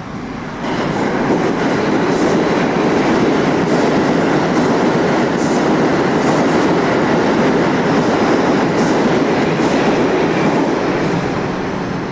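New York City subway train running on the tracks. Its sound swells suddenly about a second in and eases off near the end, with irregular sharp clicks of the wheels over rail joints.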